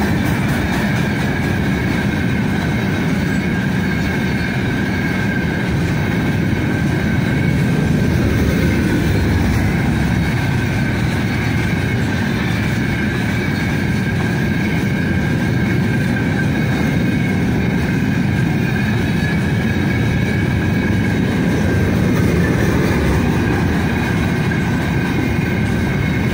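Freight train of open gondola wagons rolling past close by: a loud, steady rumble of wheels on rail, with a thin steady high ringing note above it.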